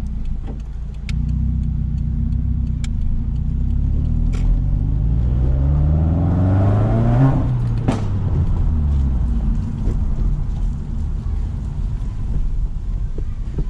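Subaru WRX turbocharged flat-four, straight-through with muffler and resonator deleted, accelerating with its note rising for about four seconds, then a loud sharp exhaust pop about eight seconds in as the revs drop and the note falls away. A few smaller cracks from the exhaust come before the pull.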